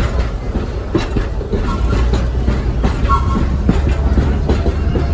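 Vintage R1/9 subway car heard from inside while running on the track: a steady low rumble from the wheels and running gear, with irregular clicks as the wheels pass over rail joints.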